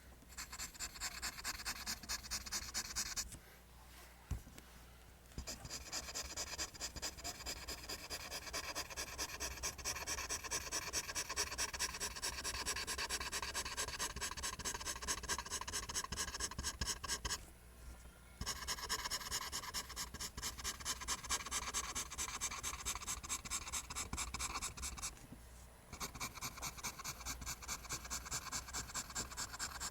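Pencil drawing lines on paper: rapid, rhythmic scratching strokes, with short pauses about three seconds in, around seventeen seconds and around twenty-five seconds.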